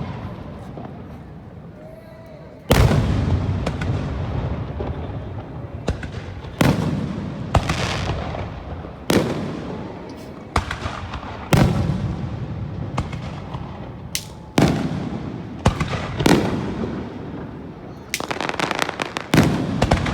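Aerial fireworks shells bursting overhead: about a dozen sharp booms a second or two apart, each trailing off in a long rumbling echo, with a quicker run of crackling bangs near the end.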